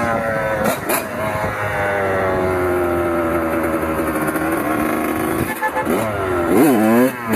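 Kawasaki KX100 two-stroke single-cylinder dirt bike engine running, its pitch easing slowly lower for about five seconds. Near the end it is revved quickly up and back down.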